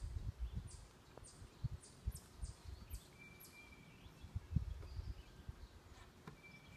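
Faint outdoor ambience of birds: a quick run of short, very high chirps over the first three seconds and a thin, held whistle about three seconds in. Irregular low gusts of wind buffet the microphone through the first five seconds.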